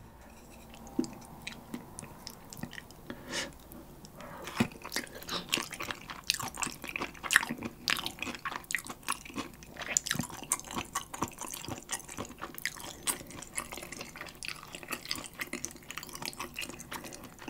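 Close-miked chewing of food: a continuous run of small wet, crunchy clicks and smacks from the mouth, sparse for the first few seconds and denser after that.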